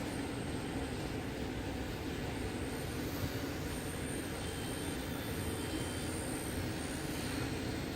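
K110 micro RC helicopter in flight: a steady rotor whir with a thin, high motor whine, over a steady low rumble.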